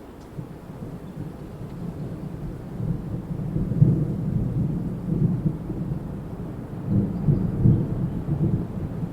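Wind gusting in low, rumbling surges, swelling about three seconds in and again near seven seconds.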